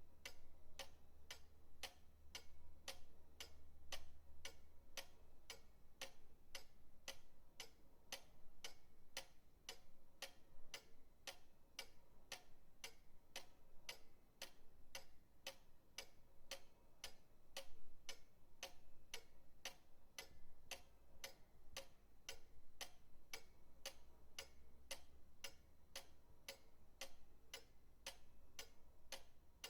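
Pendulum clock ticking steadily, about two ticks a second, with a faint low hum underneath.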